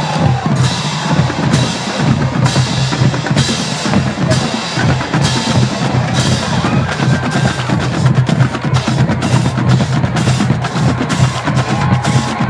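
Marching band drumline playing a fast, steady rhythm on snare, tenor and bass drums.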